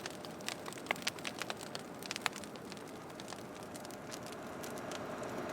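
Large brush-pile fire of trees and root balls crackling, with sharp irregular pops over a steady hiss; the popping thins out and a smoother, steadier noise builds near the end.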